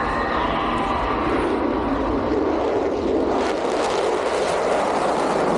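Roar of an F-35A Lightning II's Pratt & Whitney F135 jet engine, a steady, dense noise that turns harsher about three seconds in.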